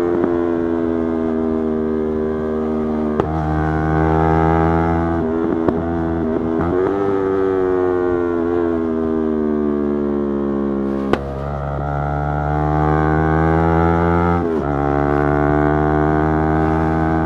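Yamaha YZF-R3's parallel-twin engine running under way at mostly steady revs, the pitch stepping to a new level several times and sinking slowly for a few seconds in the middle as the bike slows. A few sharp clicks fall at the changes.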